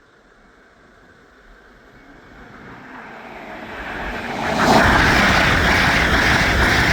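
A train approaching and passing at speed: a rushing rumble that builds over a few seconds and turns loud about four and a half seconds in.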